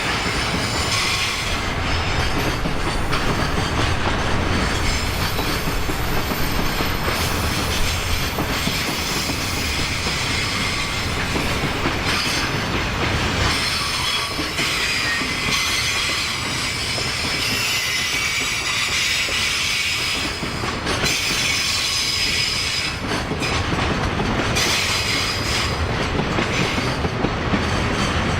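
Long freight train of container flat wagons rolling past close by: a steady rumble of wheels on rail with a repeated clickety-clack over the rail joints.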